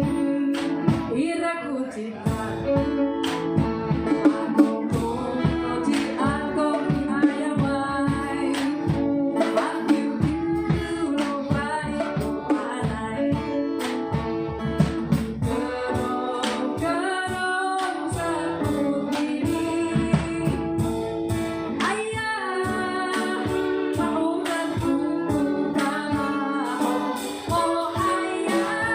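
A woman singing a song live with guitar accompaniment.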